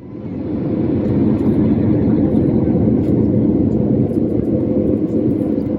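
Steady low rumble of a running vehicle, fading in over the first second.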